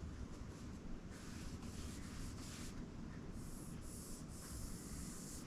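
Hand rubbing on a fretless bass's wooden fingerboard: soft back-and-forth scrubbing strokes from sandpaper or a waxing cloth during the last stage of resurfacing the board.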